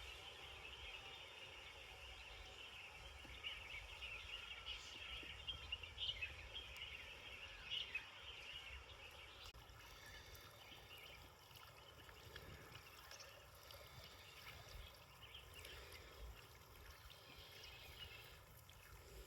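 Faint outdoor ambience: busy high chirping that thins out about halfway, over a low rumble.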